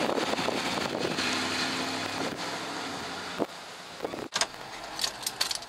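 A full-size SUV's engine runs as the vehicle pulls away, its sound slowly fading over about three seconds. A few short, sharp clicks follow near the end.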